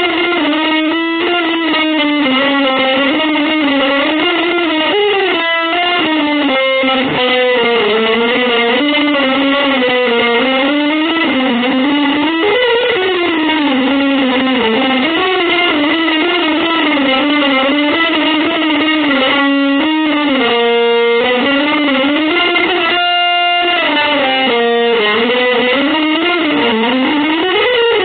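Electric guitar music: a sustained lead line that winds up and down in pitch with bends and vibrato, settling briefly on a few held notes near the end.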